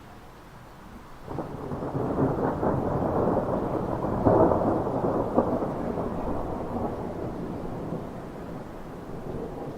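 A peal of thunder from a storm cell: a sudden crackling onset about a second in, loudest a few seconds later, then a long rumble slowly dying away.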